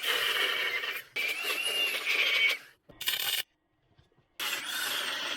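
Electric arc welding on thin car-body sheet steel while stitch-welding a rust-repair patch: the arc crackles and hisses in four bursts, the third only a fraction of a second long, with short pauses between them.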